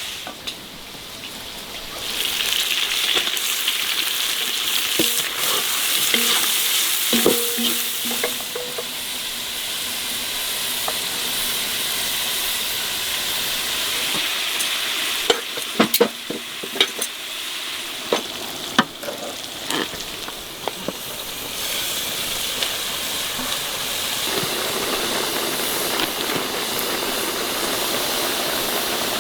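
Food sizzling as it fries in hot oil in a pan, a steady hiss, with a run of sharp clicks like a utensil knocking the pan about halfway through.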